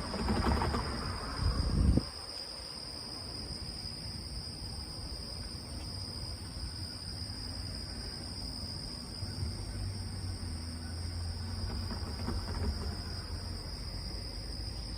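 Insects trilling steadily in two high, even pitches. A loud rumbling noise fills the first two seconds and cuts off suddenly, and a low hum comes and goes in the middle.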